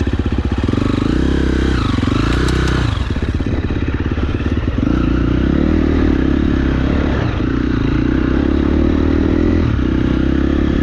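KTM enduro dirt bike engine running under load on rough trail, revs rising and falling with the throttle: up briefly about two seconds in, easing off, then held higher through most of the rest with short dips, over some clattering of the bike.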